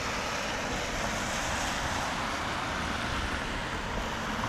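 Steady rushing road noise from riding a bicycle on wet, sleety streets, with car traffic around.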